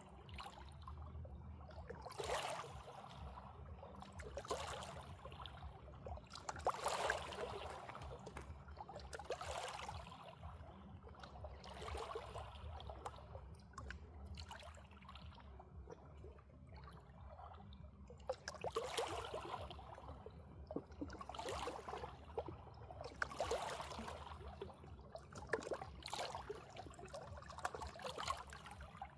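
Water splashing and trickling in repeated surges, one every two seconds or so.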